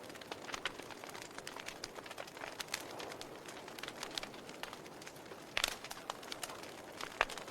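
Campfire crackling: a steady hiss of burning wood with frequent small snaps and pops, a louder burst of pops about five and a half seconds in and another sharp pop near the end.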